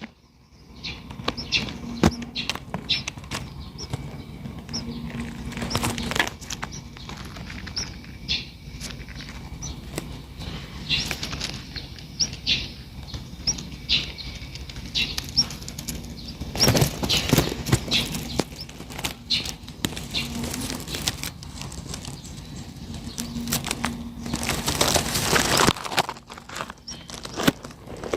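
Birds' wings flapping and rustling in short bursts, loudest about halfway through and again near the end, with scattered short high chirps from the chicks.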